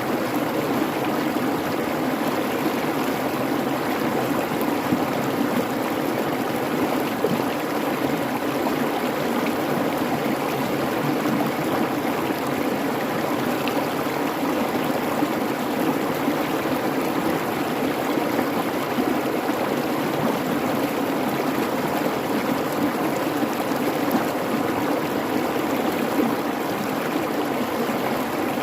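A babbling creek: water running steadily, with no change through the stretch.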